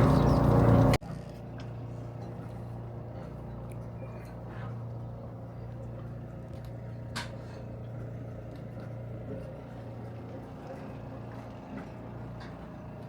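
A boat's diesel engine running at a steady idle, a low even hum with a few light clicks and knocks. A louder passage in the first second cuts off abruptly.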